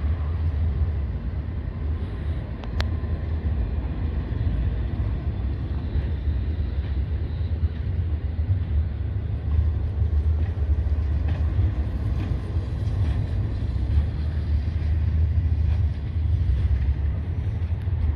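Long freight train's cars rolling slowly past the crossing: a steady low rumble with a few faint clicks.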